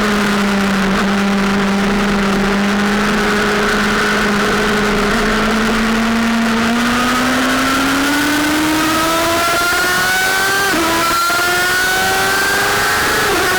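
Sportbike engine running at steady revs, then accelerating with a rising pitch, with a quick drop in revs for an upshift about eleven seconds in and another near the end, over a steady rush of wind.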